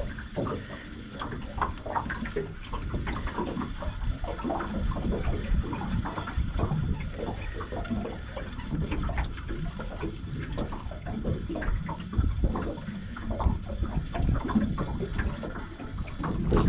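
Water splashing and sloshing close to a small boat as a hooked fish is brought in, with irregular small knocks and splashes.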